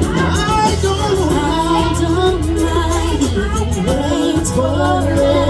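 Music: a pop song with a singer's melodic vocal line over bass and a steady drum beat.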